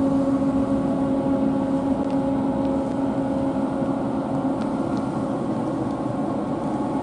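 A train's machinery humming steadily at one constant pitch over a rushing noise.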